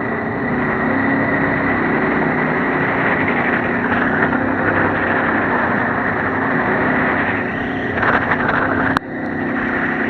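Moggaro 600WJ jet boat running under way: engine and water jet drone with a steady high whine and the rush of water, the engine pitch shifting a little. A sharp click near the end, with a brief dip in level.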